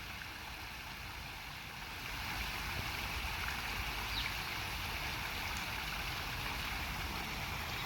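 Steady rushing of flowing water, a little louder from about two seconds in, with a couple of faint high chirps.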